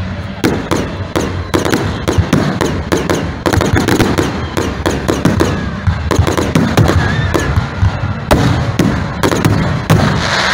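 Fireworks display: aerial shells bursting in a rapid, irregular string of bangs, several a second.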